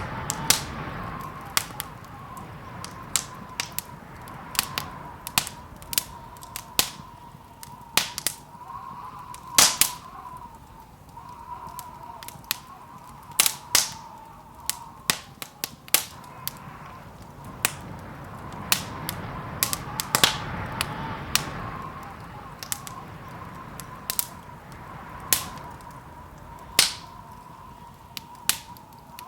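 Wood fire in a fireplace crackling, with irregular sharp pops, one or two a second, over the low steady noise of the burning.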